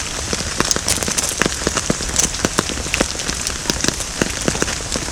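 Steady rain, with many separate drops striking close by as quick, irregular ticks.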